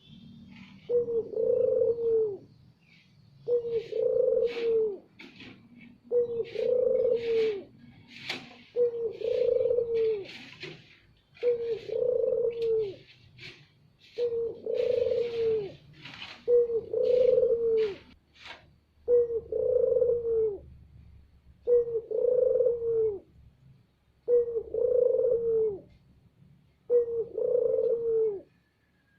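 Puter dove (collared dove) cooing loudly in a steady rhythm, one coo about every two seconds: a pancingan lure call used to stir other puter doves to sing. Short high chirps from a smaller bird come over the coos through the first two-thirds.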